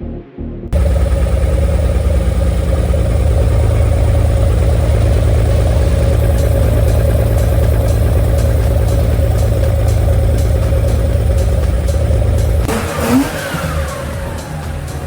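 Porsche 914-6 flat-six engine with rebuilt twin Weber 40 IDA carburetors running at raised revs, cutting in suddenly about a second in and holding steady. About two-thirds of the way through, the revs fall away and it settles lower and quieter.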